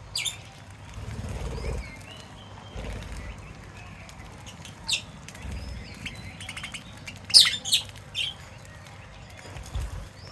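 Small pet birds chirping, with short sharp high calls near the start, about five seconds in and in a loud cluster around seven to eight seconds. Brief rumbles sound now and then underneath.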